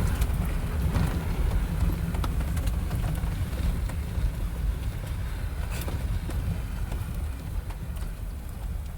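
Off-road vehicle driving along a dirt trail: a steady low rumble of engine and tyres, with a few light knocks and rattles scattered through it.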